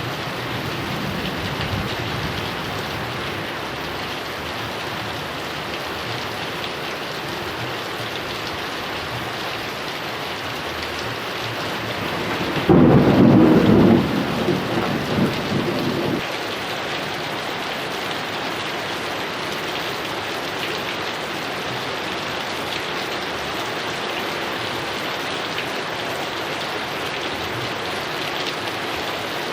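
Heavy rain falling steadily, with a loud thunderclap about halfway through that rumbles on for a few seconds before fading back into the rain.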